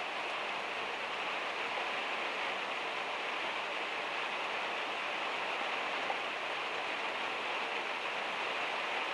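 Heavy rain drumming steadily on the van's metal roof, with one faint tick about six seconds in.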